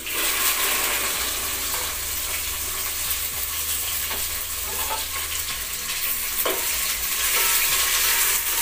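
Chopped okra frying in hot oil in a steel pot: a loud, steady sizzle that starts suddenly as the okra goes in, with a few brief scrapes as it is stirred.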